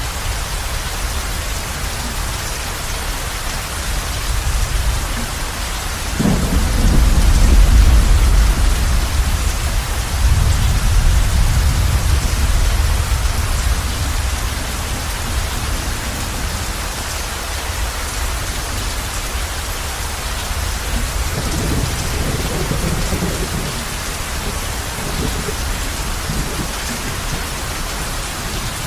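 Heavy rain falling steadily on a roof as a constant hiss. Rolling thunder rumbles low and heavy from about six seconds in, and a weaker rumble comes later.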